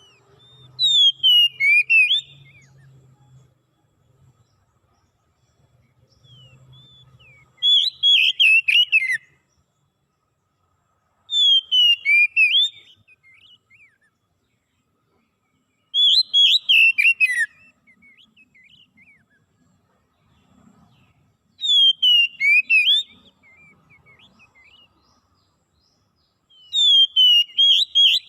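A songbird singing the same short phrase of loud, quick, falling whistled notes six times, about every five seconds.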